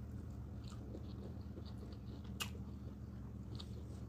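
Close-miked eating sounds of a mouthful of rice and stew eaten by hand: soft wet chewing with small smacks and clicks, and one sharper click a little past halfway, over a steady low hum.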